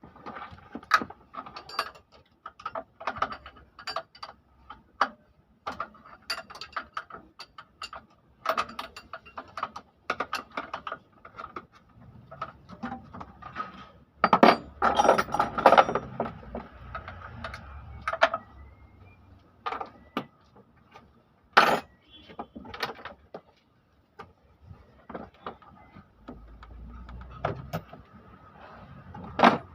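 Irregular metallic clicks, clinks and knocks of hand tools and engine parts being handled during an engine teardown, with a denser clatter about halfway through.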